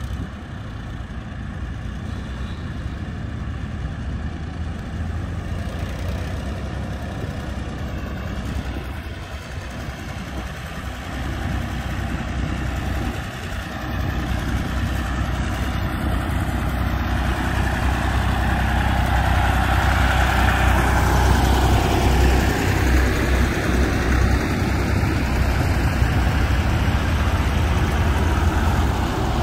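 Tractor engines running as tractors drive past, the rumble growing louder over the first twenty seconds and changing pitch as one passes.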